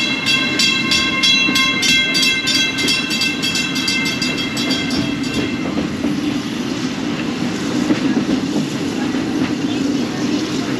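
Narrow-gauge steam train's passenger car rolling along the track, a steady rumble of wheels and cars. Over the first five seconds or so a high ringing pulses about four times a second, then stops, leaving only the running rumble.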